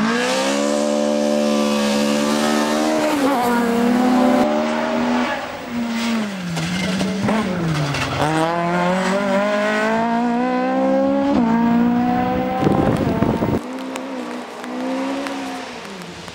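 Toyota Corolla GT rally car's four-cylinder engine revving hard, its pitch climbing through the gears and dropping as the driver lifts and shifts, with a short loud rush of noise about thirteen seconds in.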